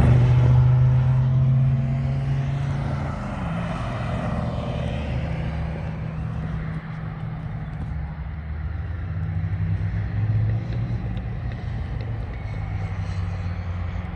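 Cars running on a race circuit. A loud low engine note eases off over the first few seconds as a car moves away, then a steadier, lower engine rumble carries on and swells slightly about ten seconds in.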